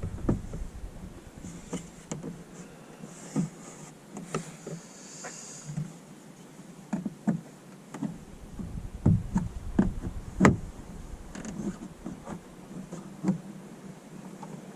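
Scattered clicks and knocks of plastic car interior trim being pried and handled while a wire is tucked in behind it, with a brief rubbing hiss about four to six seconds in.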